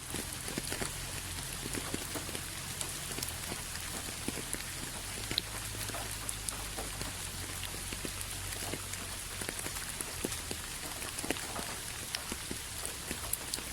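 Steady rain falling, an even hiss with many individual drops pattering and ticking on a surface, over a faint low rumble.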